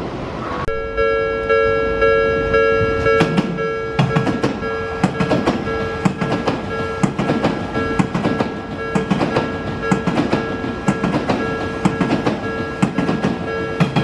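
A level-crossing warning alarm rings steadily while an Odakyu train's wheels click over the rail joints. The joint clicks come thick and fast from about three seconds in.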